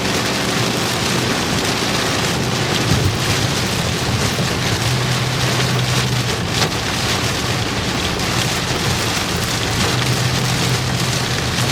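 Heavy rain pelting a moving vehicle, heard from inside the cabin as a steady, loud hiss, with a low engine and road hum underneath that grows a little stronger about halfway through.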